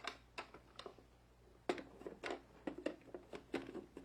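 Light, irregular clicks and taps of a hard plastic toy carry case and small die-cast toy trains being handled, about a dozen in quick succession.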